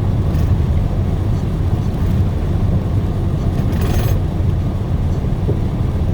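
Truck engine and road noise as a steady low rumble, with a short hiss about four seconds in.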